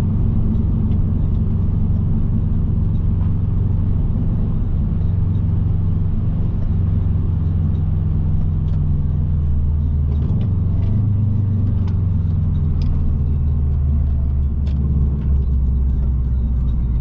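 Subaru Impreza WRX's turbocharged flat-four engine and road noise heard from inside the car while cruising: a steady low drone whose pitch shifts a little around the middle, with faint scattered ticks.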